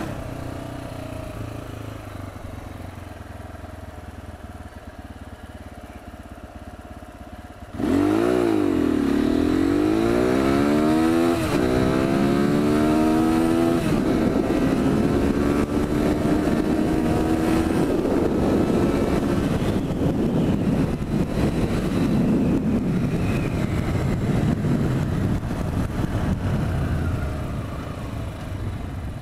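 AKT TT Adventour 250 motorcycle engine idling at a standstill, then about eight seconds in it launches at full throttle for a 0–100 km/h run. The engine note climbs, drops at an upshift, climbs again and drops at a second shift, then pulls steadily in a higher gear under a growing rush of wind, and eases off near the end.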